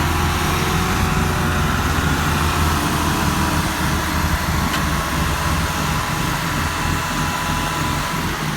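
Tractor engine running steadily, its low note easing a little in the second half.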